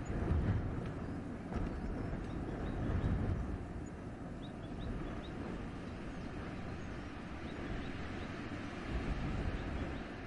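Wind gusting through a forest, a low, rushing noise that swells and eases, with a few faint, short, high bird chirps now and then.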